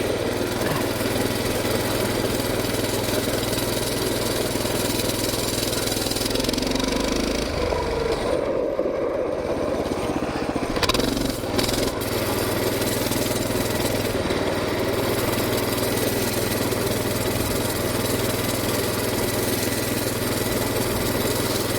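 Coleman BT200X mini bike's small single-cylinder engine running at a steady throttle while riding, with a brief easing about eight seconds in.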